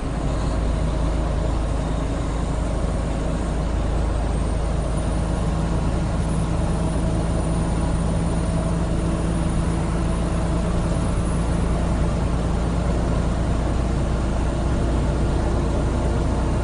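Steady road and engine noise of a car driving at highway speed, heard from inside the cabin: a continuous deep rumble with a faint even hum.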